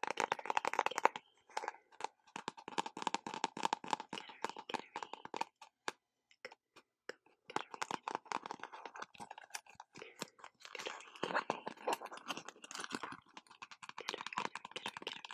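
Close-mic ASMR trigger sounds: rapid, crackly clicking in dense runs, with a short pause about six seconds in.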